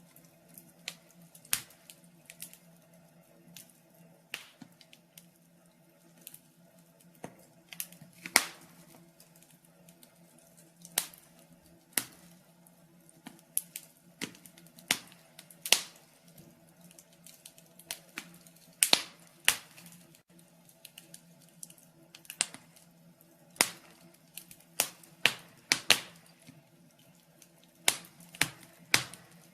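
Wood fire in a fireplace crackling: irregular sharp pops and snaps, some much louder than others, over a faint steady hum.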